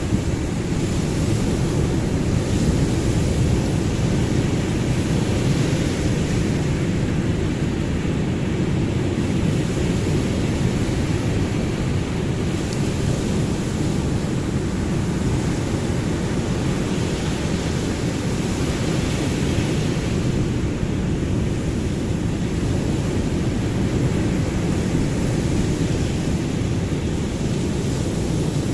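Ocean surf: waves washing in as a steady, low, deep rush of noise with only slight swells.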